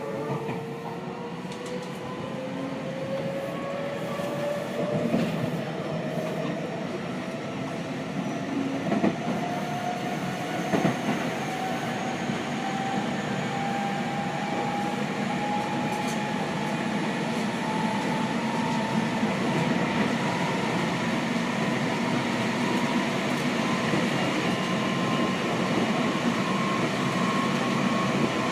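Seibu 6000 series electric train's Hitachi GTO-VVVF inverter and traction motors whining in a slowly rising pitch as the train accelerates, heard inside the carriage over steady running noise. A few wheel clacks over rail joints come in the first half.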